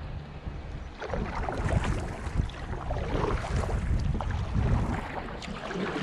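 River water splashing and rushing around a fishing kayak in current, with small knocks and splashes rising and falling unevenly.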